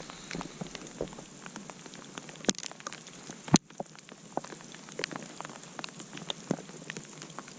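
Campfire burning and crackling: many small irregular pops and ticks over a soft hiss, with one loud, sharp snap about three and a half seconds in.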